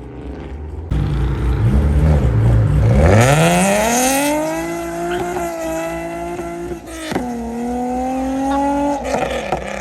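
A car engine rumbles, then revs up hard as the car accelerates away, its pitch climbing steeply. The pitch drops suddenly at a gear change about seven seconds in, climbs again, then falls off near the end as the driver lifts.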